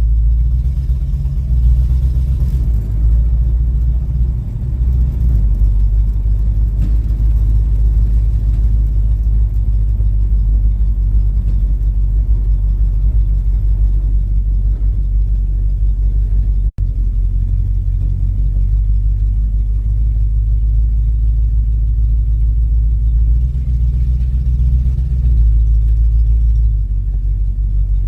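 1979 Ford truck's engine running with a steady, loud low rumble, broken by a momentary gap about two-thirds of the way through.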